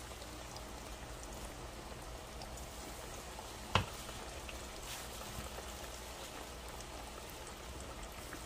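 Battered salmon pieces deep-frying in a pot of hot oil: a steady sizzle with faint crackles. One sharp click comes a little under four seconds in.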